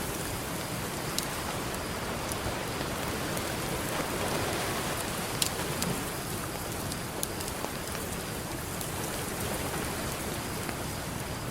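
Campfire crackling with scattered sharp pops over a steady wash of ocean surf, which swells a little about four seconds in.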